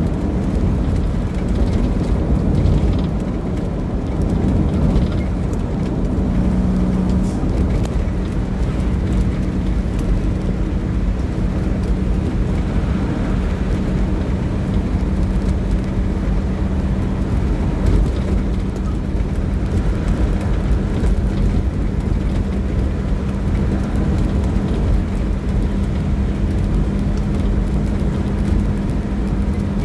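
A motor vehicle running on the move: a steady low rumble with an even, unbroken hum.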